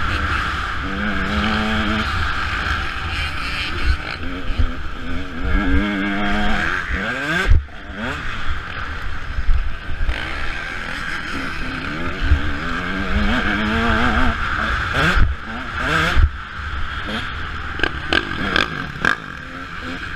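Motocross dirt bike engine revving up and down repeatedly as the rider works through the gears. Several sharp knocks are heard along the way, about a third of the way in and twice more past the middle.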